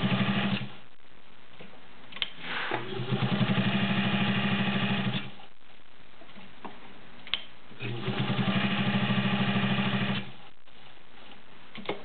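White model 3954 all-metal sewing machine with a 1.3-amp motor, stitching through 16 layers of cotton blend in short bursts: a run stops just after the start, then two more runs of a few seconds each, with a few light clicks in the pauses between them.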